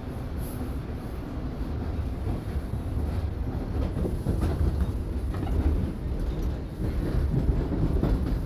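Toronto subway train running through the tunnel, heard from inside the car: a steady rumble with rail clatter, growing a little louder.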